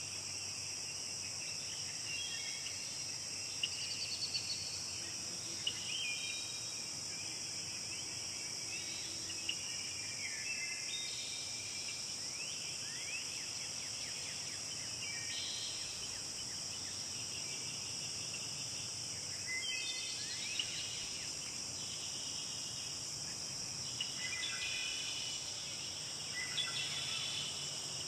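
Forest ambience: a steady, high insect drone with birds singing over it, short chirping phrases and quick downward whistles coming every few seconds.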